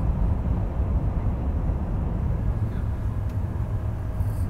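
Cabin noise inside a Shinkansen E5 series bullet train running at about 317 km/h: a steady low rumble.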